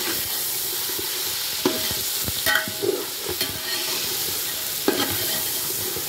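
Chicken and tomatoes frying in oil in a metal pot, a steady sizzle, while a metal spoon stirs them, knocking against the pot four times; one knock about two and a half seconds in rings briefly.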